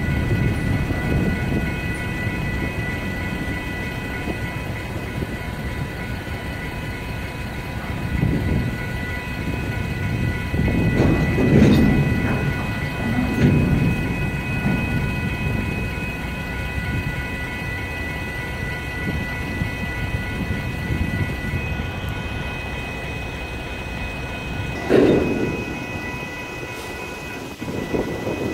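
Freight cars rolling slowly over a grade crossing with a low rumble, clanking loudly a few times about 11 to 14 seconds in and with one sharp bang near the end. Over it the crossing's electronic warning bells ring steadily at a high pitch.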